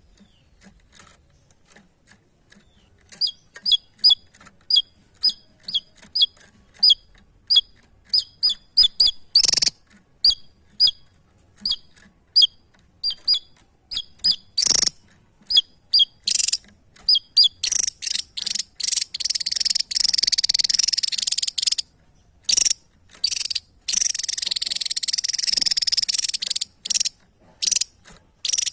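Small songbird calling loudly: sharp, high chirps repeated about twice a second, then breaking into long runs of fast, rich chattering song for the last third.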